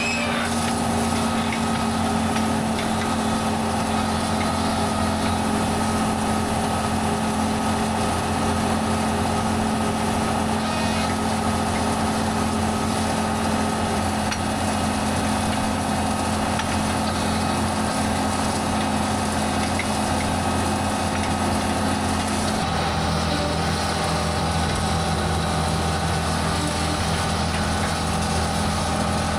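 Tractor engine running steadily under load while pulling a hay rake. The engine's tone shifts slightly about three-quarters of the way through.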